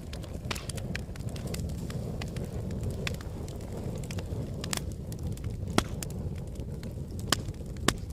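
Wood fire burning in a fireplace and crackling: a steady low rumble of the flames with many small sharp snaps and three louder pops in the second half.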